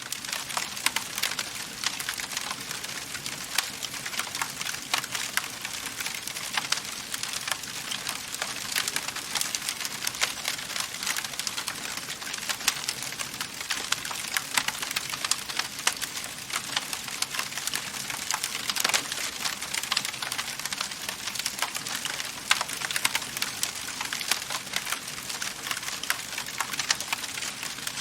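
Wood fire in a fireplace crackling steadily: dense small snaps over a soft hiss, with a few louder pops now and then.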